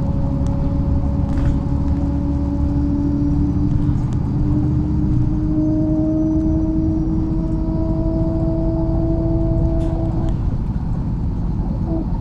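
MAZ-103 city bus heard from inside the passenger cabin: engine and drivetrain running with a heavy low rumble and a steady whine that climbs in pitch as the bus picks up speed, breaking off briefly about ten seconds in before returning.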